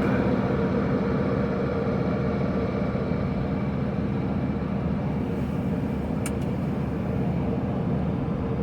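1983 Chevrolet Camaro's carbureted engine idling steadily just after a cold start. A single sharp click about six seconds in.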